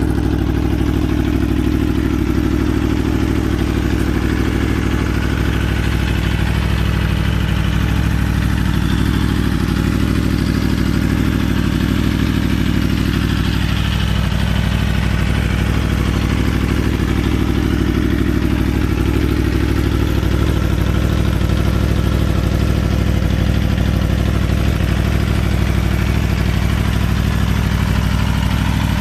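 2014 Aprilia Tuono's V4 engine idling steadily, with no revs.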